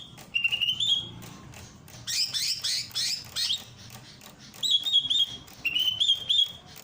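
Cucak ijo (green leafbird) singing: repeated short phrases of rising, slurred whistles, with a faster run of downward-sweeping chirps about two to three and a half seconds in.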